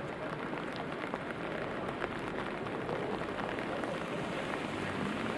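Steady rain: an even hiss with scattered sharp ticks of single drops striking.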